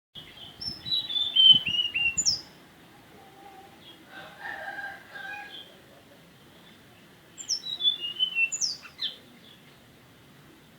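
Tledekan gunung songbird singing two quick phrases of high, downslurred whistled notes, with a softer, lower warble between them.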